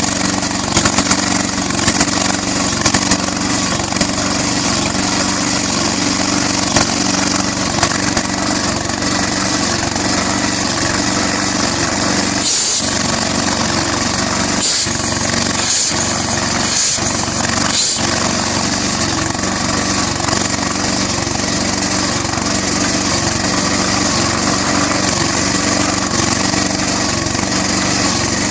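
Southpenn 20 HP propane-fuelled hit-and-miss flywheel engine running steadily, with a few sharp clicks in the first several seconds and several short breaks in the sound around the middle.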